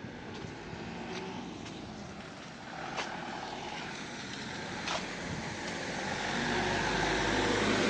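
Footsteps of someone walking on pavement, with a few separate steps heard, while a car approaches along the street and gets steadily louder over the last couple of seconds.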